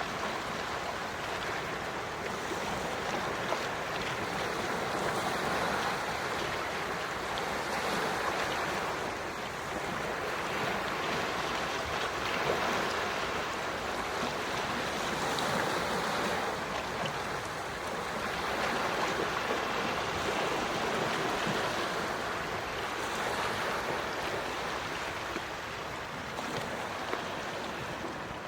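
Small ocean waves breaking and washing on the shore in slow, gentle swells a few seconds apart.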